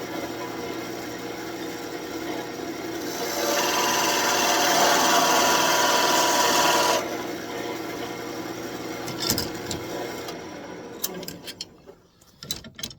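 Wood lathe running as a turning tool cuts into the spinning birch, a louder scraping cut for about four seconds in the middle. The lathe then winds down and goes quiet near the end, with a few clicks.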